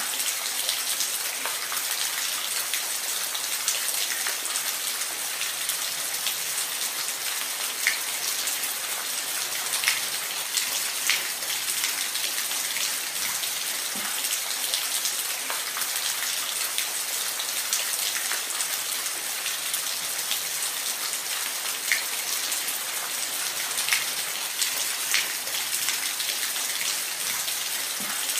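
Waterfall: a steady hiss of falling, splashing water, dotted with frequent short, sharp splashes.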